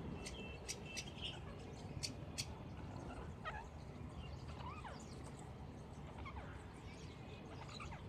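About five sharp taps in the first two and a half seconds, then a few faint, short bird chirps with quick pitch glides, spaced a second or more apart.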